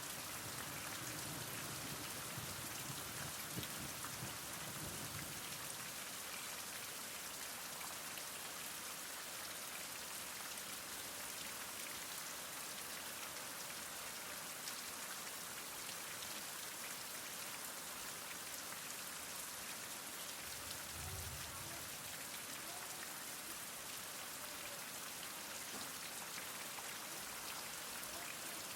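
Heavy rain falling steadily, an even hiss of many drops. A faint low rumble comes in the first few seconds, and a brief low thump about three-quarters of the way through.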